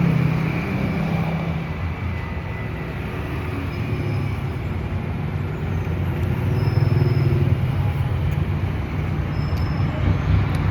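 Low, steady rumble of road traffic, with a vehicle engine running close by that grows louder about seven seconds in.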